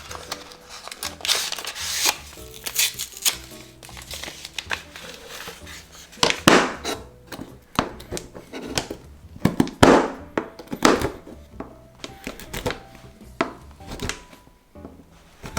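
Food-preparation handling sounds: irregular crinkling rustles and sharp knocks, busiest in the middle, over soft background music.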